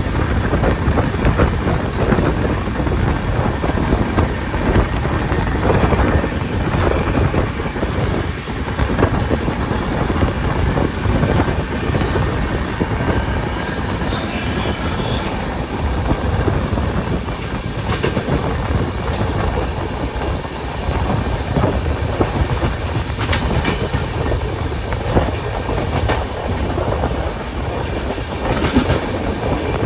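Ashokapuram Express passenger train running at speed, a steady heavy rumble with wheels clattering over the rail joints throughout. A faint high whine comes in about halfway through.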